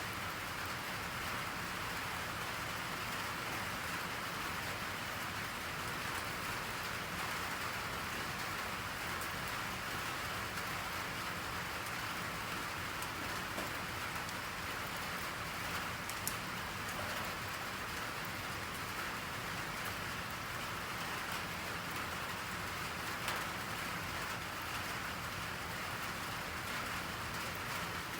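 Steady rain falling on a surface, an even, unbroken patter, with a couple of brief sharper ticks, the clearest about halfway through.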